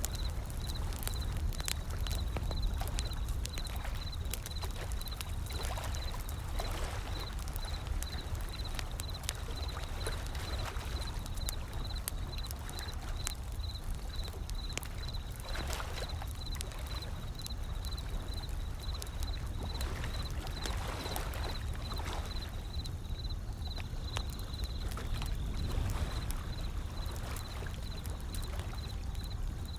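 Wood fire crackling with many sharp pops, over a constant low rumble of surf and waves washing in that swell up every few seconds.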